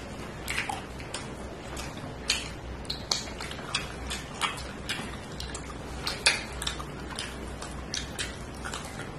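Close-miked eating: irregular wet smacking and chewing clicks, about one or two a second, over a steady low hum.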